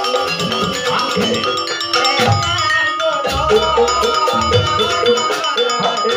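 Campursari ensemble playing instrumental dance music: gamelan-style metallophones ring a busy melody over deep hand-drum strokes that bend in pitch, keeping a steady beat.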